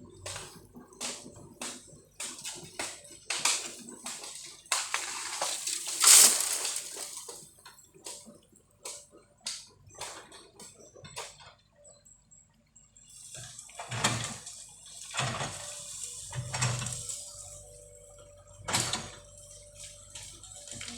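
Bamboo cracking and snapping in a run of sharp, irregular cracks as heavy equipment pushes a bamboo clump over, with one loudest snap about six seconds in and a brief lull near the middle. A faint steady machine hum runs underneath at times.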